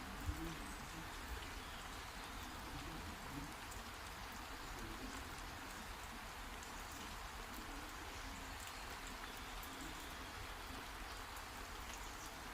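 Steady rain falling, a constant hiss with scattered drops ticking, and one brief knock just after the start.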